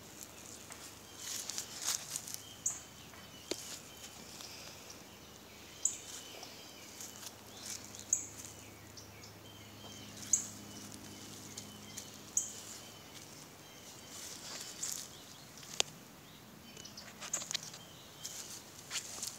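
Birds calling in a garden: a short high chirp repeated about every two seconds, with runs of quick twittering notes between, over faint rustling.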